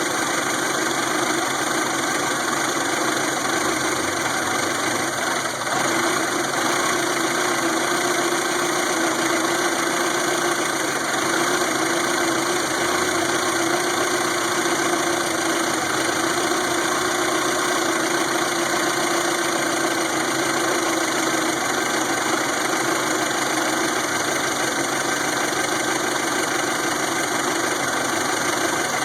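1992 Toyota Camry's four-cylinder engine idling steadily.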